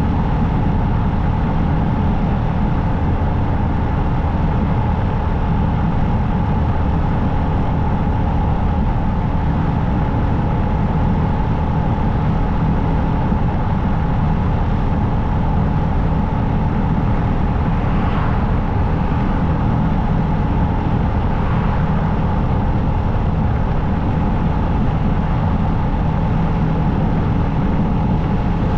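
Motorcycle engine running at a steady cruising speed under road and wind noise, a loud, even drone. Twice, about two-thirds of the way through, a brief higher sound rises and fades.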